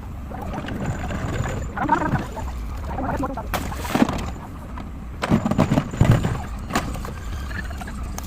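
Diesel engine of a Cat 424B2 backhoe loader running under load, with irregular knocks and clatter of hard material being loaded into a tractor trolley, heaviest about four to seven seconds in.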